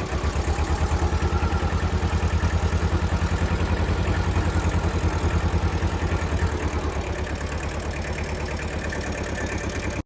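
Kubota L185 tractor's diesel engine running with a strong, regular firing pulse; the pulse eases and the note smooths out about two-thirds of the way through.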